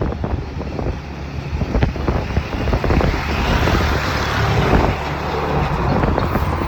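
Wind buffeting the microphone of a moving scooter, with the rumble of road and engine noise underneath and a few brief knocks from bumps in the road.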